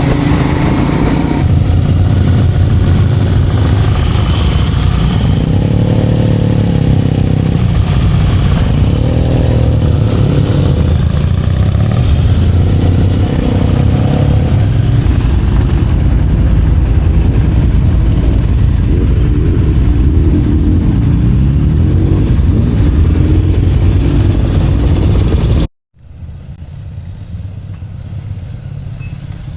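Motorcycle engine running loud on the road, its pitch rising and falling with the throttle. About 26 seconds in it cuts off abruptly, and a quieter, duller engine sound follows.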